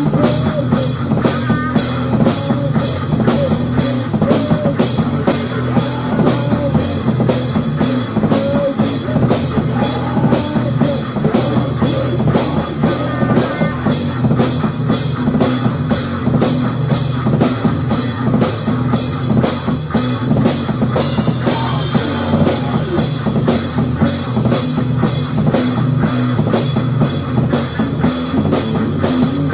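Loud rock music: a drum kit with bass drum and cymbals keeps a steady driving beat under a full band.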